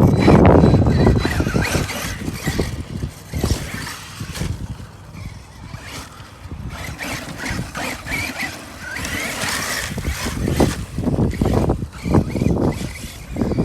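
Arma Mojave 6S RC truck on a 4S battery driving over a dirt track: its brushless electric motor speeds up and slows with the throttle, and the tyres run over dirt with scattered knocks. It is loudest in the first second or so.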